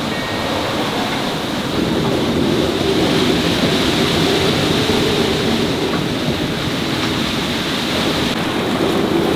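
Strong wind of about force 7 and rough sea rushing steadily past a sailing yacht, with wind buffeting the microphone; the rush swells about two seconds in and again near the end.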